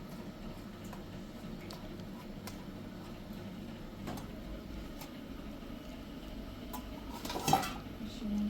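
Scattered faint clicks and knocks over a steady low hum, with a brief louder clatter, like dishes or utensils being handled, about seven and a half seconds in.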